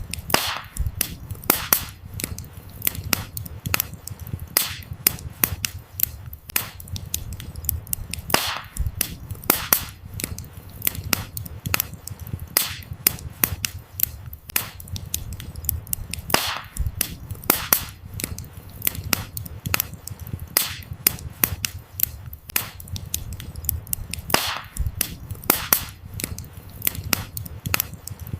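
Wood fire crackling: frequent irregular pops and snaps of burning firewood, with a handful of louder sharp cracks, over a low steady rumble of the flames.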